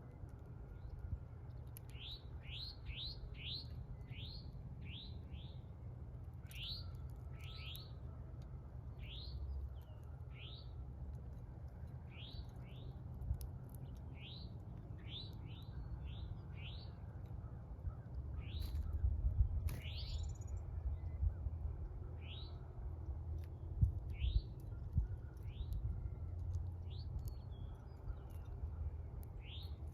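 Small bird chirping at a feeder: a string of short, quick upward-sweeping chirps, about one or two a second, starting about two seconds in. A low rumble runs underneath and swells twice in the second half.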